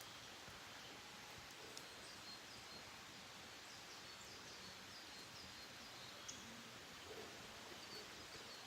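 Faint wild bird song: a quick series of short, high chirps repeated over a quiet, steady hiss, with a pause before a few more near the end.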